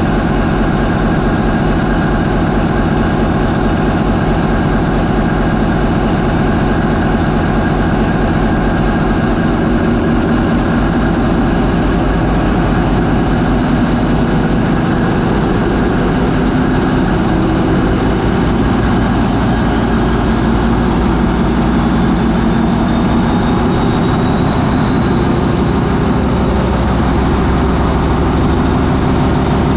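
MAN 20V28/33D STC twenty-cylinder V diesel marine main engine running loud and being stepped up from 550 toward 800 rpm, with the changeover of its sequential turbochargers. A high whine climbs in pitch over the last several seconds.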